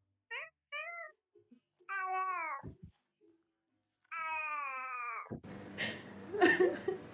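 Domestic cat meowing: two short chirped meows, a falling meow about two seconds in, and a longer drawn-out meow about four seconds in. Near the end, noisy, jumbled sound takes over.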